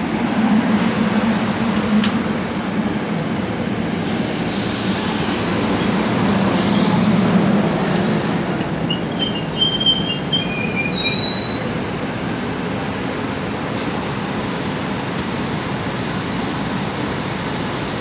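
SEPTA Silverliner IV electric multiple-unit train rolling alongside the platform and braking to a stop, a steady rumble and hum with brief high-pitched wheel squeals about nine to eleven seconds in. From about twelve seconds in there is a steady hiss and hum from the standing train.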